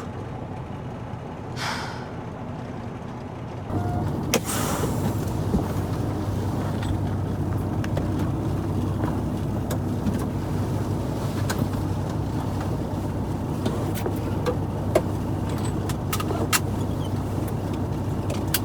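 Semi truck's diesel engine running, heard from inside the cab. About four seconds in it steps up to a louder, steady low hum. A brief hiss comes just after the step, and scattered clicks and rattles are heard throughout.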